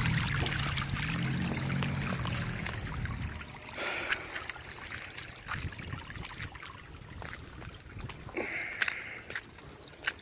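Water rushing and trickling from a leaking water line, which is still leaking strongly. A low steady hum sits under it for the first three seconds or so, then the sound drops to fainter running water with scattered small clicks.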